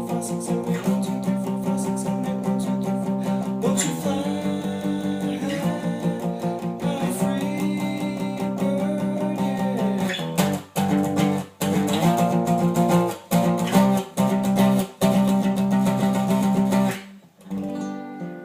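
Guitar power chords strummed with fast, even downstrokes, moving between the 3rd, 6th and 8th frets. After about ten seconds the strumming turns choppy, short strums with brief gaps. It stops near the end and the last chord rings out and fades.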